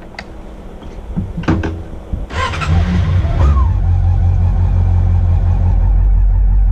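Honda CB400SF's inline-four engine starting: a few clicks, then it catches a little over two seconds in with a brief rev that falls back, and settles into a steady idle. The battery is freshly installed.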